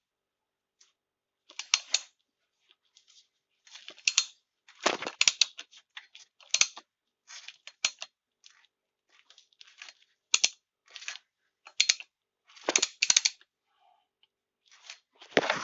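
Short, irregular high-pitched squeaks from the crankshaft oil seal area of a 1.6 BSF engine, in scattered chirps with gaps between them; the owner takes it for a squeaking crankshaft seal.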